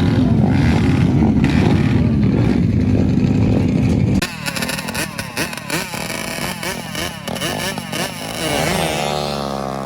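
Motorcycle engines at a drag strip. For about four seconds a loud, steady engine runs close by. It then cuts sharply to an engine revved up and down in quick, repeated sweeps, and near the end the pitch falls and then climbs again.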